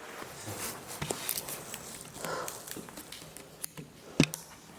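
Scattered footsteps and knocks in a large empty building, uneven and irregular, with one sharp knock about four seconds in.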